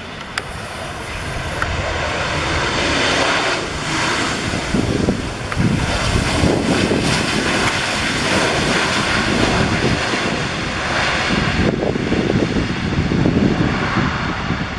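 Boeing P-8 Poseidon's twin CFM56 turbofan engines as the aircraft comes in to land: a steady jet roar that builds over the first couple of seconds and then stays loud, swelling a little now and then.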